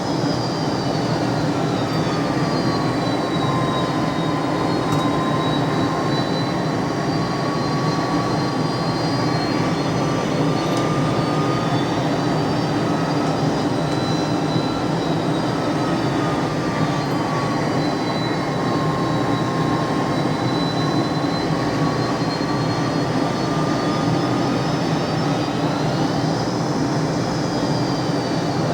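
McDonnell Douglas DC-10 jet engines running steadily, a constant rush with a whine whose pitch drifts slowly up and down.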